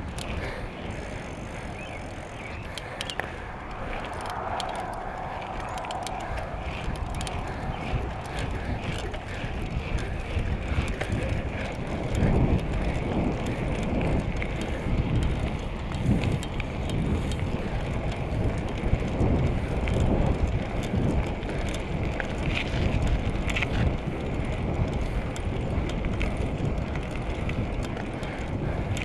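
A bicycle being ridden, heard from the rider's camera: tyre noise and rattling clicks from the bike, with a low rumble that grows louder and rougher about twelve seconds in.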